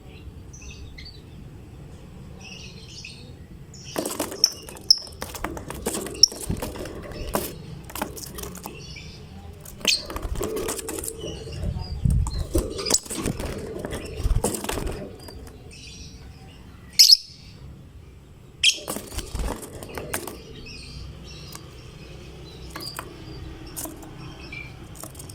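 Lovebirds chattering in short, high chirps, broken by flurries of wing-flapping and sharp clicks. The loudest sound is a single sharp crack about two-thirds of the way through.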